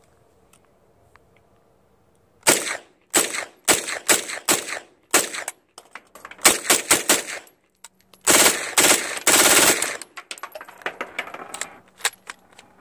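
Unsuppressed PTR 9CT, an MP5-type 9mm, firing 124-grain Winchester NATO rounds. After a short pause come sharp single shots, then a quicker cluster, then a dense string of shots lasting almost two seconds. The firing stops with a failure to eject.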